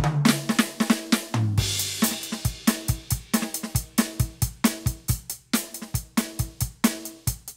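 Roland TD-17KVX electronic drum kit played through its module. A tom fill falls in pitch at the start, a crash lands about one and a half seconds in, and then a steady kick, snare and hi-hat groove follows.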